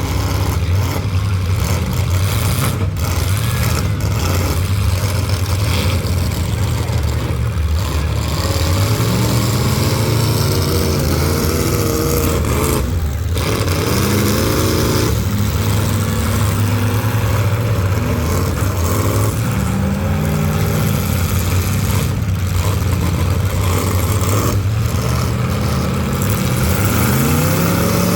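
Demolition derby full-size cars' engines running hard with a steady low drone, revving up in rising pitch again and again as the cars accelerate.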